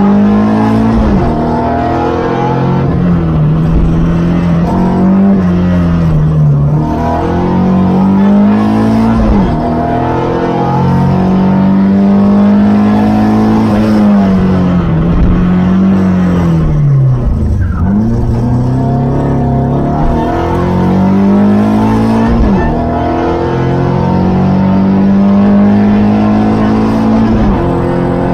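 Opel Ascona B rally car's four-cylinder engine, heard from inside the cabin, driven hard on a stage: the revs climb through each gear and drop sharply at every shift, about ten times. Near the middle the revs fall away deeply as the car slows, then it pulls hard through the gears again.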